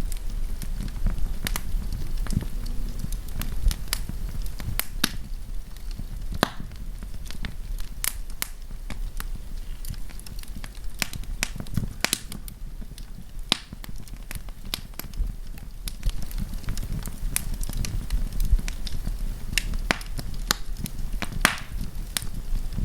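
Wood fire burning and crackling, with sharp, irregular pops and snaps over a steady low rumble of flames.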